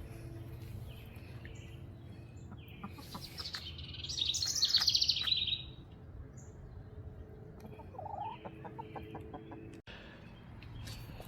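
Backyard birds calling. The loudest is a rapid, high chattering call from about four seconds in, lasting a second and a half. A shorter run of lower repeated notes follows around eight seconds.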